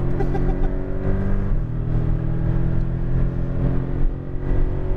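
Porsche Cayman GTS engine at full throttle, heard inside the cabin as the car accelerates hard down a straight. The steady engine note has a short break about a second and a half in, then carries on.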